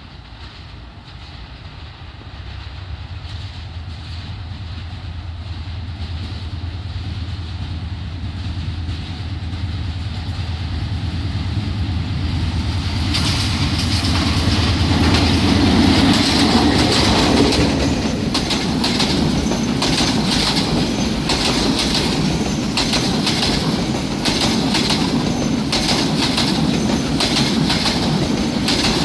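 Meter-gauge diesel-hauled passenger train approaching and passing. The locomotive's engine hum grows steadily louder. From about thirteen seconds in, rapid clickety-clack of the coaches' wheels over the rail joints takes over and runs on loudly.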